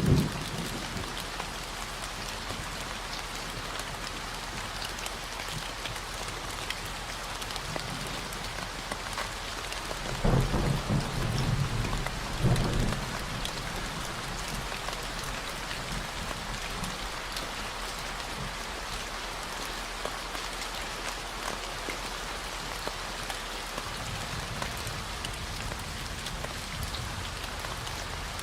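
Steady rain falling, with a low thunder rumble rolling through between about ten and thirteen seconds in. A constant 40 Hz low tone hums underneath.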